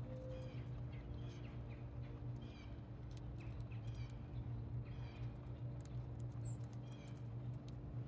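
Small birds chirping, short falling chirps repeated every half second to a second, over a steady low hum, with scattered sharp clicks.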